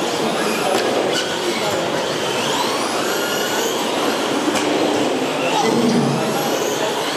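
Electric motors of radio-controlled short course and stadium trucks whining, several at once, rising and falling in pitch as they speed up and slow down, over a steady hall background noise.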